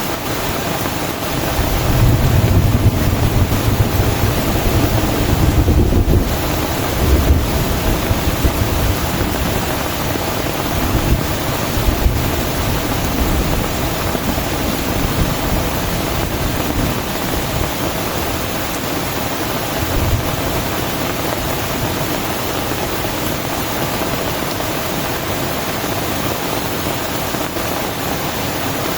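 Heavy rain falling steadily, with a low rumble from about two seconds in that lasts several seconds and dies away, and a couple of shorter low bumps later on.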